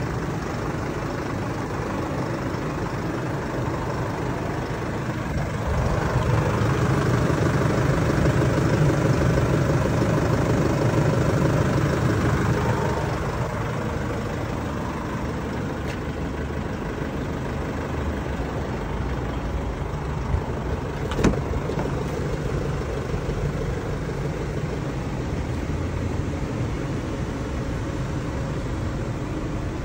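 A vehicle engine running steadily, swelling louder for several seconds in the middle, with one sharp click later on.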